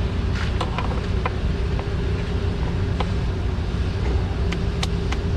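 Scattered sharp clicks and scrapes of a screwdriver prying at a hardened, dried-out plastic breather tube on the engine, over a steady low mechanical rumble with a faint constant hum.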